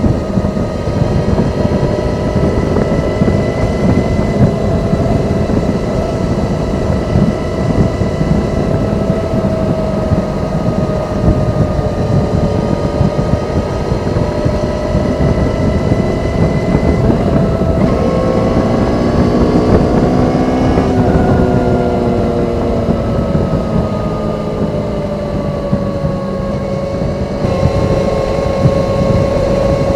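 Kawasaki ZZR400 inline-four motorcycle engine on its stock exhaust, running at steady revs at expressway speed under a heavy rumble of wind and road noise. About 18 seconds in the revs climb for a few seconds, break off, then ease down slowly.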